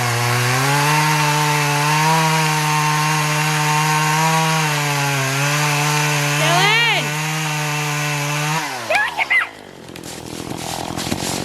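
Chainsaw running steadily at high revs under load as it cuts into a stubborn tree, its engine note dropping away about three quarters of the way through.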